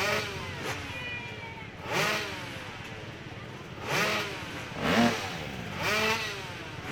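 Motorcycle engine revved in short throttle bursts, about five times. Each time the pitch shoots up and falls back quickly, over a steady drone.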